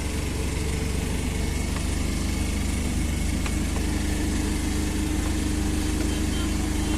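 Vehicle engine running with a steady low hum and road noise.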